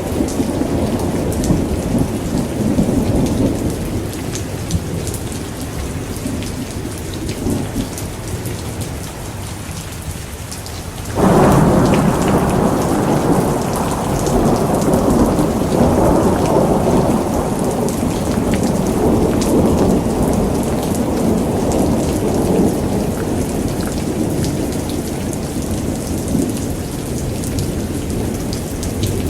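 Thunderstorm: steady rain with rolling thunder. A low rumble fades over the first several seconds; then, about eleven seconds in, a sudden loud thunderclap breaks in and rumbles on, slowly dying away.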